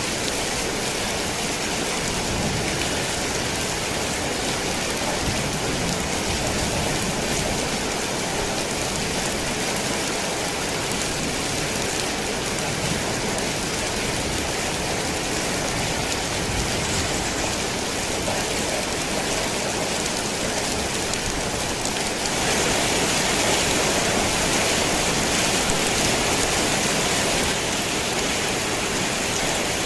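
Heavy rain falling steadily on a worn tin roof, a dense even patter that grows louder for about five seconds near the end before settling back.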